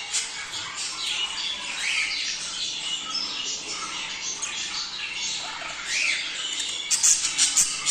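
A flock of budgerigars chattering and squawking, many short overlapping calls and chirps, growing busier and louder near the end.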